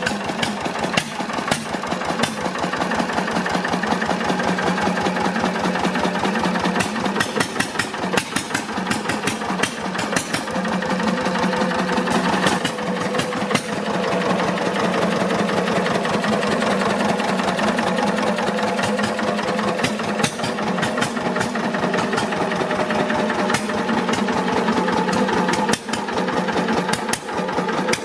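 Deutz MAH 516 stationary engine running, its firing strokes a rapid, even series of knocks. It grows a little louder over the first few seconds, then holds steady.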